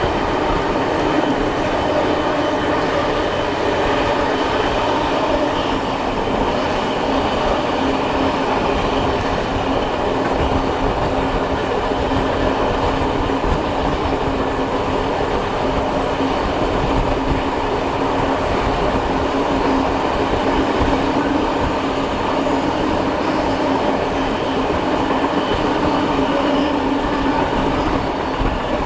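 Steam-hauled heritage passenger train running along the line, heard from aboard a carriage: a steady, loud rumble of wheels on rail with a constant hum underneath.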